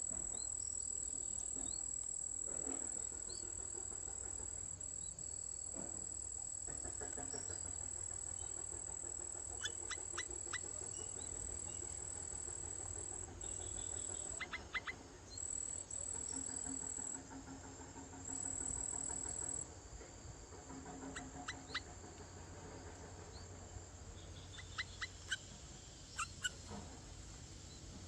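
A steady, high-pitched insect trill that stops and restarts a few times in the second half, with clusters of short, sharp chirps about a third of the way in, around the middle and near the end.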